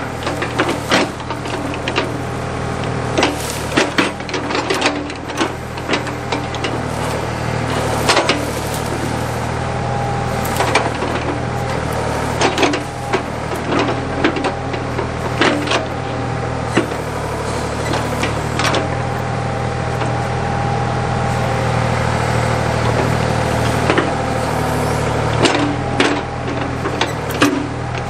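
Backhoe engine running steadily under load while digging out tree stumps, with frequent sharp clanks and knocks from the bucket and linkage, and at times a faint whine.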